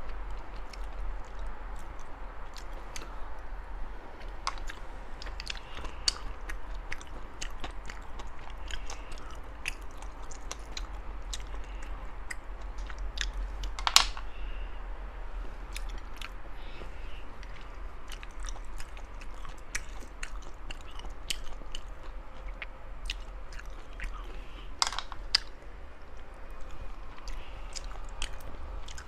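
Close-miked chewing and biting of spicy sea snails, with many small sharp clicks and snaps throughout. One sharper, louder click comes about halfway through, and another near the end.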